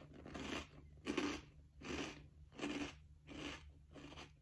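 A person chewing a mouthful of crunchy puffed corn snack: about six soft crunching chews, a little under a second apart.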